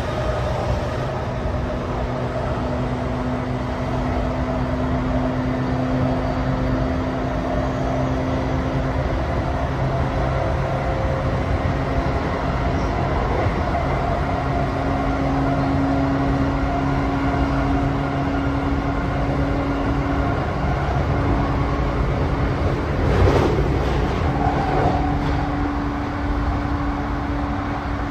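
Interior running sound of a JR East E235 series commuter train car at speed: a steady hum over continuous wheel and rail noise, with a brief louder rush of noise about five seconds before the end.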